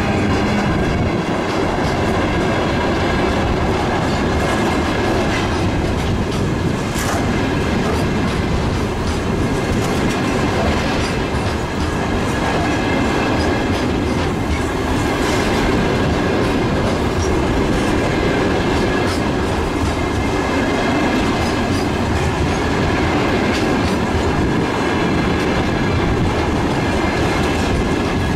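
Long freight train of loaded wagons rolling steadily past, its wheels clacking over rail joints with a thin, steady squeal.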